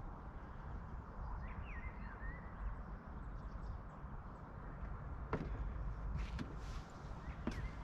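Marina ambience: a low steady rumble with a few bird chirps about two seconds in, and two sharp knocks, the loudest sounds, about five and seven and a half seconds in.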